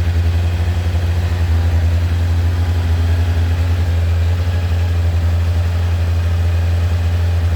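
Kawasaki ZX-9R B1's 899 cc inline-four engine idling steadily after a cold start, with no revving. These engines are typically rattly at tick over, around 1200 rpm, which the owner puts down to either the cam chain or the alternator chain needing adjustment.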